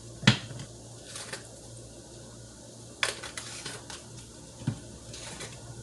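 A few separate clinks and knocks of kitchen utensils and containers against the pot, over a low steady hum.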